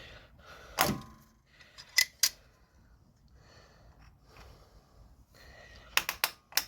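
Sharp metallic clicks and clanks of a hose clamp and tool being worked onto a radiator hose: single clicks about one and two seconds in, then a quick run of four near the end.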